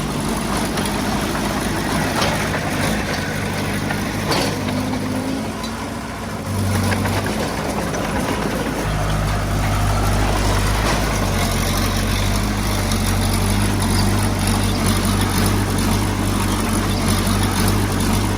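Heavy-equipment diesel engine running, then working harder and getting louder about halfway through.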